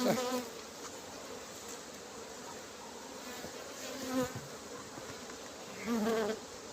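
Honeybees buzzing around an open hive, with single bees flying close past three times: near the start, about four seconds in and about six seconds in. The colony is stirred up by the inspection, angry by the beekeeper's word.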